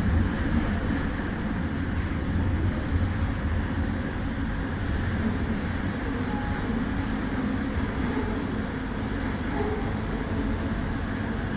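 Kelana Jaya Line light-rail train running, a steady low rumble with a broad even noise of the ride.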